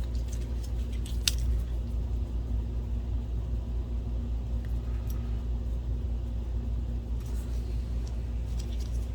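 A steady low hum, with a few light clicks about a second in and again near the end as the light tunnel's small metal spring clip is handled and bent.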